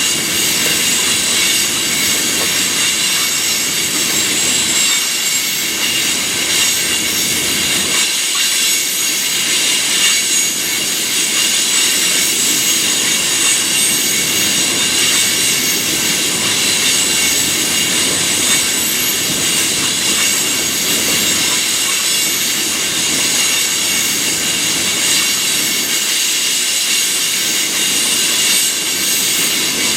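Freight train cars rolling steadily past on the rails, with a continuous high-pitched squeal from the wheels.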